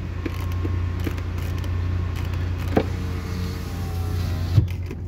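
Steady low hum of the Fiat Stilo's petrol engine idling, heard from inside the cabin, with two light knocks, about three seconds in and near the end.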